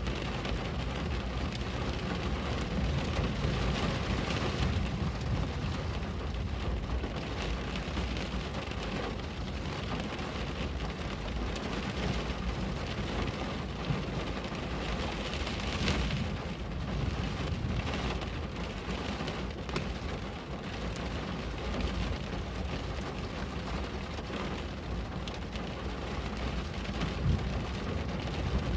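Steady rain on a window: an even hiss of rainfall with a few sharper drop taps, over a constant low rumble.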